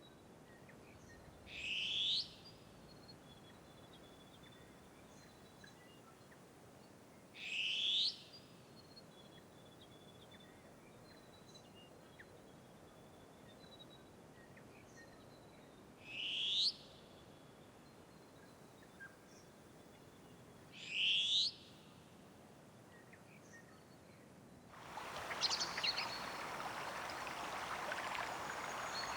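A bird calling: a single sharp, rising call repeated four times, several seconds apart, over faint distant birdsong. Near the end a louder, denser chorus of birds and chirping insects comes in.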